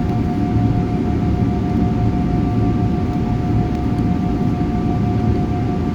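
Steady airliner cabin noise on the ground before takeoff: a low rumble with a steady whining tone over it and no change throughout.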